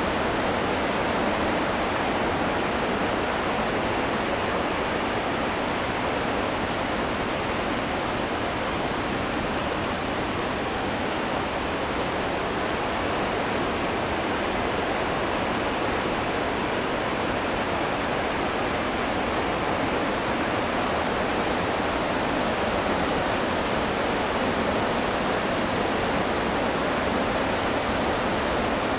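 Steady rush of the Goðafoss waterfall: a loud, even roar of falling water that does not change.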